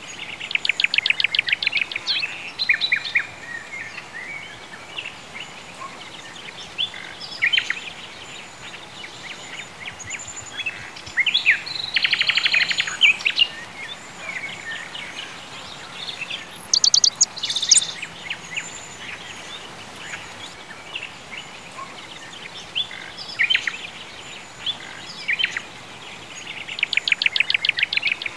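Songbirds singing: rapid trills of many quick notes near the start, about twelve seconds in and near the end, with scattered chirps and short calls between them, over a faint steady hiss.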